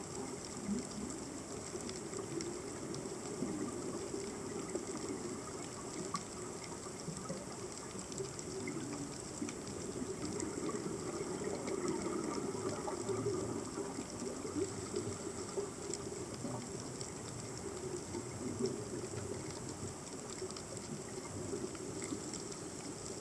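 Underwater ambience picked up by a submerged camera: a steady wash of water noise with many faint, scattered crackling clicks.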